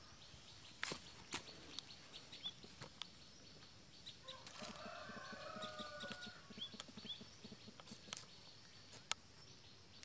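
Faint outdoor bird sounds: short high chirps here and there, and a longer stretch of calling in the middle with a quick run of low pulses. A few sharp clicks stand out.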